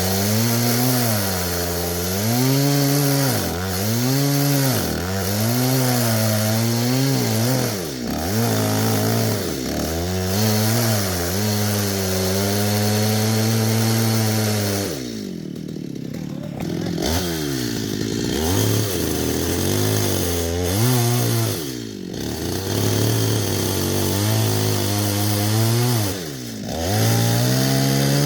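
Stihl MS 250 two-stroke chainsaw cutting wood, its engine speed swelling up and down about once a second for the first half. Around the middle the pitch sags low for a couple of seconds under load, then climbs back and holds high near the end.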